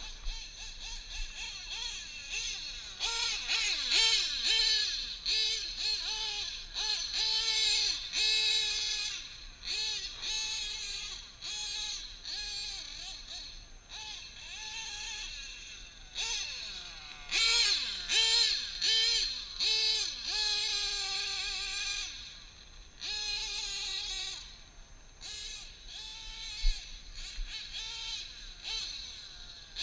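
Drag-modified Novarossi .28 nitro engine with a tuned pipe, running at high revs in bursts. Its high wailing pitch rises and falls with the throttle, with short breaks between.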